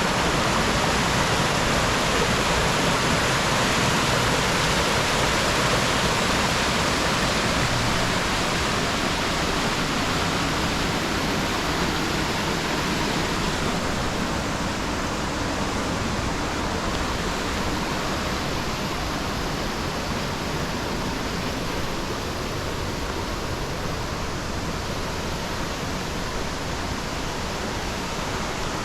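Steady rush of a rocky river and waterfall, an even roar of water that grows slightly quieter over the stretch.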